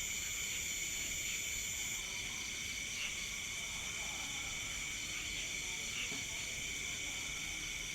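Night chorus of crickets and other insects: many steady, shrill, overlapping trills. One higher insect tone cuts off about two seconds in.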